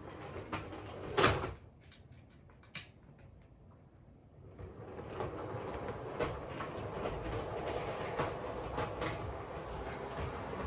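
G-scale Bachmann Thomas model train running on its track, its wheels clicking over the rail joints. A sharp knock comes about a second in, then the sound drops away for a few seconds before the running noise and clicking return.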